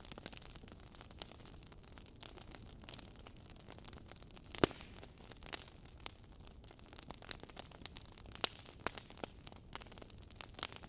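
Wood fire in a fireplace crackling: irregular sharp pops and snaps over a low hiss of burning logs, with one louder pop about halfway through.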